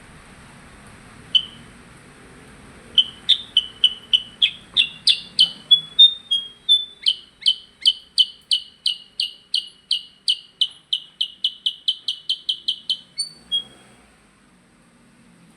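A percang songbird singing loudly: a single sharp note, then a long run of about thirty quick, sharp chirps that come faster toward the end, closing with two short notes.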